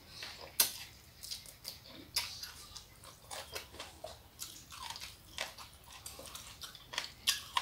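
Mouth biting and chewing Batak green onion stalks: an irregular run of wet crunches and mouth clicks, with a sharper bite about half a second in and another near the end.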